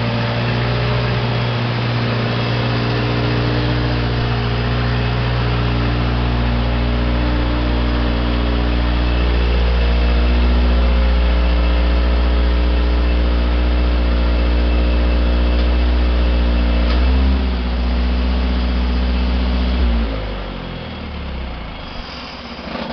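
Onan 15 kW standby generator engine running steadily under load, with a brief change in its note about seventeen seconds in. Near the end it is switched off and winds down, its pitch falling as it coasts to a stop.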